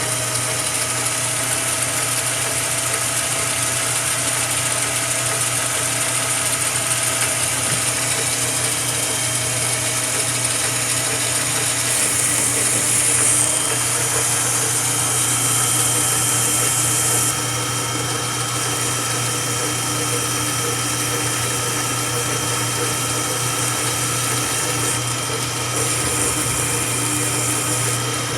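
Jet metal lathe running steadily with its motor hum while a tool cuts a small metal part, a high hiss swelling for a few seconds about halfway through and again near the end.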